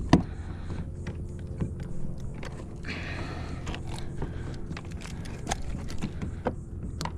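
Scattered knocks and clicks of a large redfish being handled aboard a kayak, with a sharp thump just after the start. A low steady hum runs underneath.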